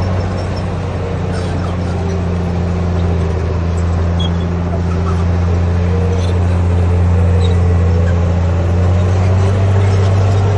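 Heavy earthmoving machine's diesel engine running steadily under load, a deep drone with a faint whine above it that rises slightly near the end.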